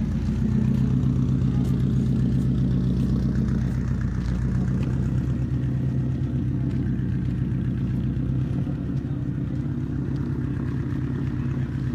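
Car engine idling steadily with a deep, pulsing exhaust rumble, easing slightly near the end.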